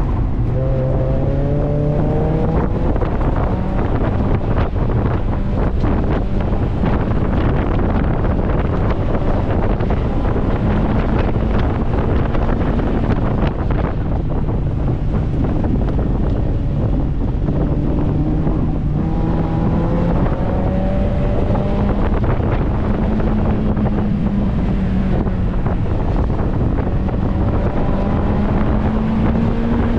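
A 2002 Mazda Miata's 1.8-litre four-cylinder engine driven hard, its pitch climbing under acceleration near the start and again about two-thirds through. It is heard from inside the open-top cabin under heavy wind buffeting on the microphone.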